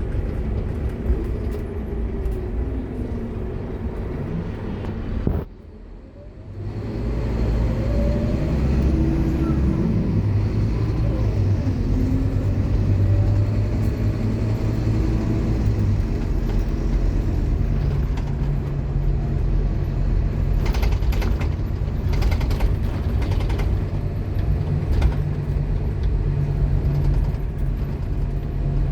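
Scania K230UB bus engine and ZF Ecomat automatic gearbox running under way, the gearbox loud. The sound dips sharply for about a second, then the engine note climbs and steps through the gears before settling into steady running.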